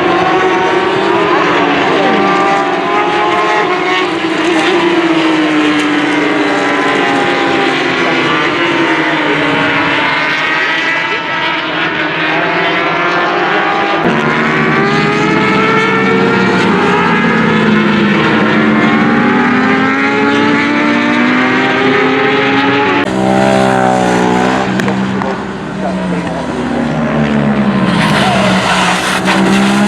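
Racing engines at high revs, their pitch repeatedly climbing and dropping through gear changes, in several clips cut together.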